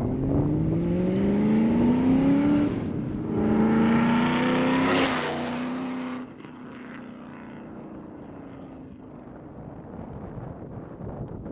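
2013 Shelby GT500's supercharged 5.8-litre V8 through a catless Borla exhaust (long-tube headers, X-pipe, S-Type mufflers), accelerating hard from a take-off with the note rising in pitch. It eases off for an upshift about three seconds in, then rises again as the car passes, loudest about five seconds in. The note then drops in pitch and fades as the car moves away.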